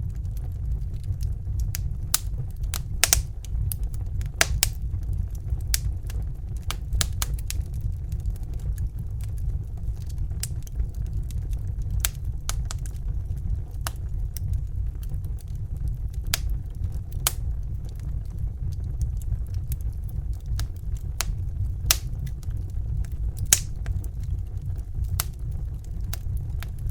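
Crackling fire: irregular sharp pops and snaps, a few each second, over a steady low rumble.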